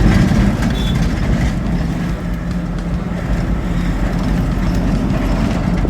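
Car's engine and road noise while driving, a steady low hum.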